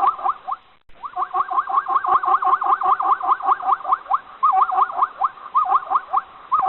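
An animal squeaking rapidly, short rising squeaks about six or seven a second in runs with brief pauses.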